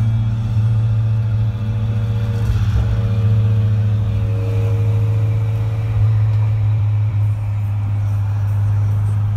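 Car engine noise heard from inside a moving car's cabin: a steady low drone, with the engine note shifting slightly partway through.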